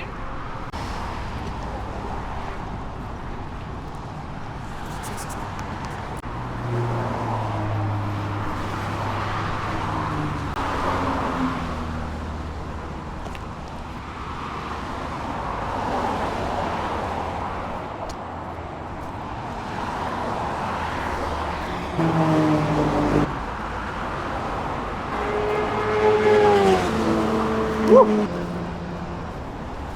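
Highway traffic passing close by: a run of vehicles goes past one after another, the road noise swelling and fading with each. The engine notes of some of them drop in pitch as they go by.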